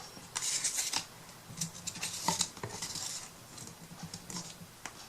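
Paper being cut into a strip and handled: a string of short, crisp scraping and rustling strokes.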